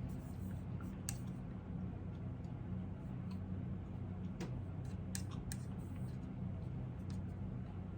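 Computer keyboard keys being typed on in a slow, irregular scatter of single sharp clicks over a steady low hum.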